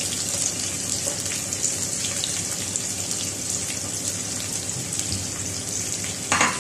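Garlic, onion and ginger sizzling in hot cooking oil in a pot: a steady frying hiss with light crackles, and a brief knock near the end.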